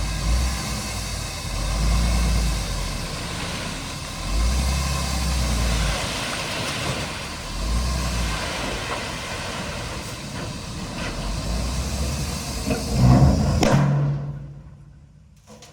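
Shantui DH17 bulldozer's diesel engine working under load, its low rumble swelling and easing several times as it pushes. The sound falls away sharply near the end.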